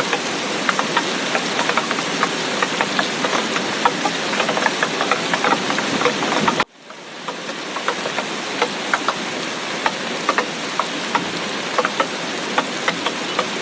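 Heavy tropical rain falling steadily, a dense hiss full of sharp individual drop hits. About halfway through it cuts out abruptly and fades back in over a second, a splice in the recording.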